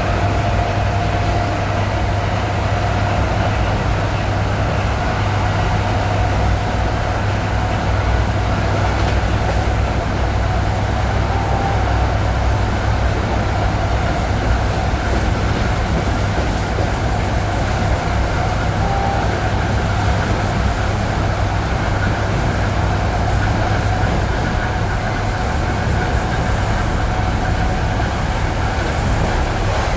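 ED9E electric multiple unit running steadily, heard from inside the car: continuous rolling and running noise with a steady low rumble and a faint whine held at an even pitch.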